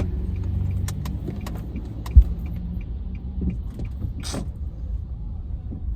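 Steady low rumble of a car on the move, heard from inside, with one sharp thump about two seconds in and a short hiss a couple of seconds later.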